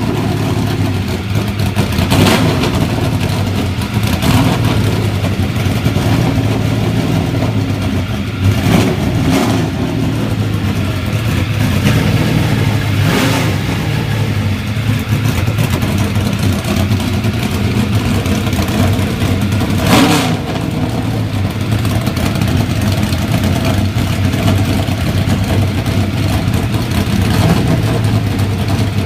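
Ford Mustang NASCAR race car's V8 engine idling through its exhaust, blipped about half a dozen times with quick, short revs, the biggest about twenty seconds in.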